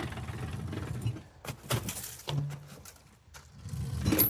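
A low rumble that dies away about a second in, then scattered knocks and clunks, with a brief low hum just after two seconds and a cluster of sharp clicks near the end.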